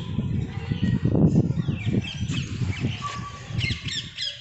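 Birds chirping, with quick runs of short calls in the second half, over an uneven low rumble that is loudest about a second in.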